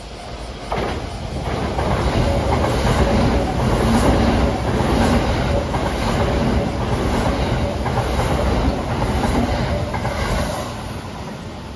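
Kintetsu Nara Line rapid express electric train passing at speed without stopping, its wheels clattering over the rail joints in a steady rhythm. The sound swells about a second in and fades near the end.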